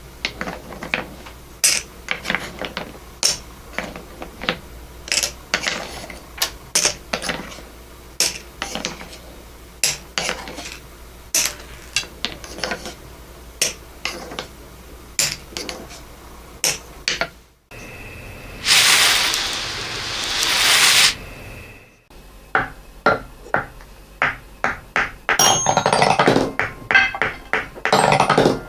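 Small hard balls and beads clicking and clinking as they run and drop, in an irregular series of sharp ticks, with a dense rattling rush of many beads for a few seconds past the middle that stops suddenly.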